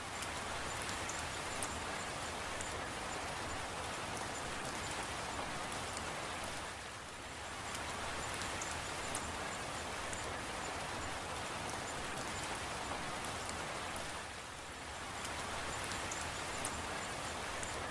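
Steady rainfall, with scattered sharp ticks of single drops; it eases off briefly twice, about seven and fourteen seconds in.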